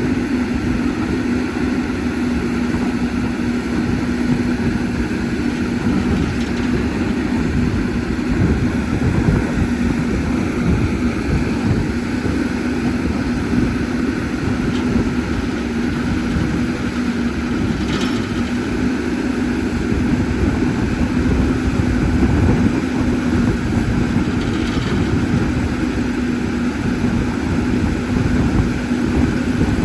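CAT 320D excavator's diesel engine running steadily under work, a constant hum over a low rumble, with one brief sharp knock partway through.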